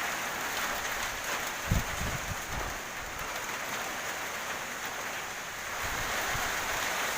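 Heavy rain falling in a windstorm, a steady hiss, with a few low wind buffets on the microphone about two seconds in.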